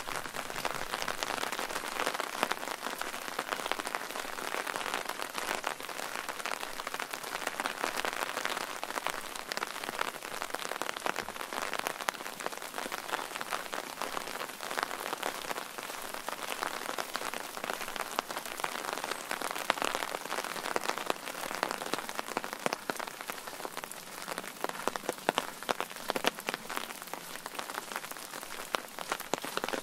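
Steady rain falling, with a dense spatter of individual drops hitting close by.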